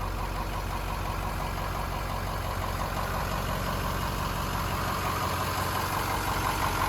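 Ford 6.0L Power Stroke turbo-diesel V8 idling steadily, growing slightly louder toward the end.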